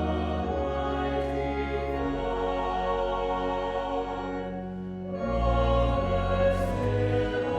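Slow sacred music with singing over long held chords. The chord changes about two seconds in, and again about five seconds in after a brief dip, when it swells louder.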